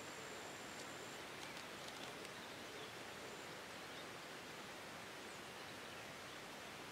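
Faint outdoor ambience: a steady low hiss of background noise, with a thin high tone for about the first second and a few faint ticks.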